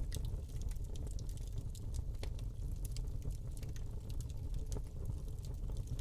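Wood fire burning in a fireplace: a steady low rumble of flames with frequent small, irregular crackles and pops from the burning log.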